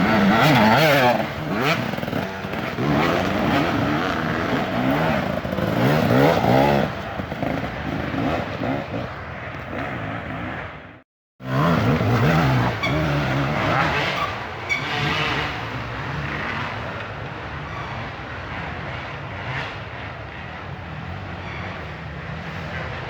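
Dirt bike engines revving and running hard, their pitch rising and falling with the throttle. About halfway through, the sound cuts out for a split second.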